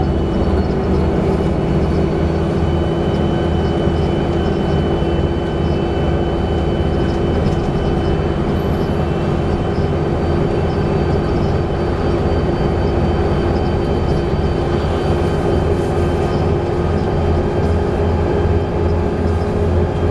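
Volvo B7TL bus running steadily under way, a constant engine and drivetrain drone with a thin, steady high-pitched whistle over it, the kind of whistle the uploader puts down to a bad differential.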